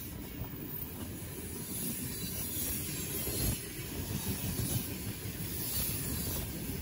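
A train running past on the track: a steady rumble of wheels on rails with a high hiss, growing slightly louder toward the end.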